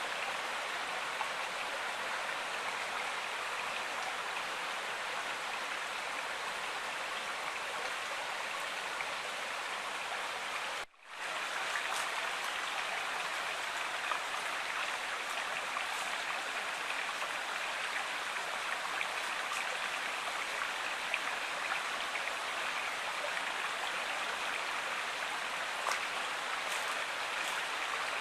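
River water flowing and rushing steadily, cut off briefly about eleven seconds in before resuming.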